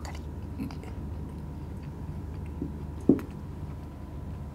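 A person biting and chewing a soft, syrup-soaked badusha, with small wet mouth clicks over a low steady hum. About three seconds in there is one sharp thump.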